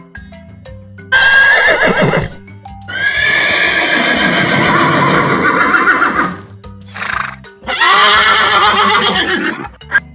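A horse neighing several times, with a long whinny lasting about three seconds in the middle, over light background music.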